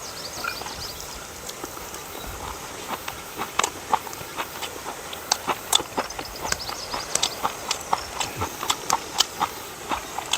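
Irregular sharp clicks and light knocks, a few a second, sparse at first and coming thicker from about three seconds in.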